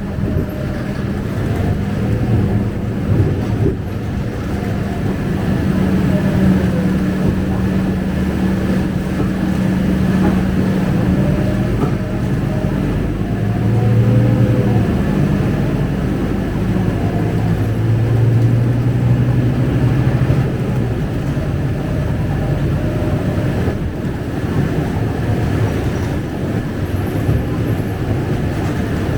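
Cabin sound of a Scania K250UB single-decker bus under way: steady engine drone and road noise with interior rattles. The engine note shifts lower about halfway through, and a faint steady high whine runs underneath.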